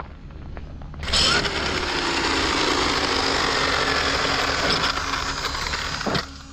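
Arrma Kraton 12S RC car's 700KV Leopard brushless motor running hard under throttle, its whine rising and falling over the noise of the tyres on loose ground. It starts about a second in and cuts back near the end.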